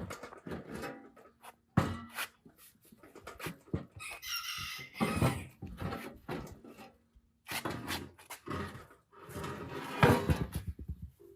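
A rooster crowing once, about four seconds in, amid repeated short knocks and clatter.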